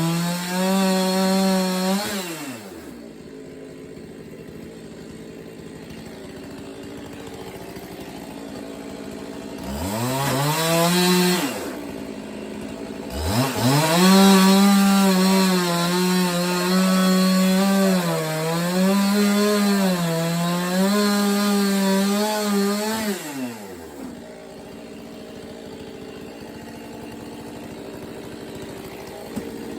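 Chainsaw engine at full throttle cutting through wood slabs. It drops back to idle about two seconds in, revs up briefly, then makes a long cut of about ten seconds. Its pitch sags a little under load before it falls back to idle near the end.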